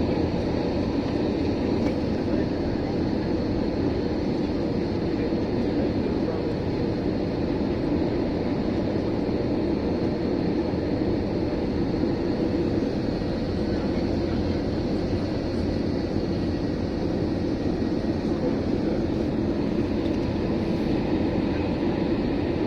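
Steady cabin noise of an Airbus A321 in flight: engine and airflow noise at an even level, with faint steady whines above it and no change in level.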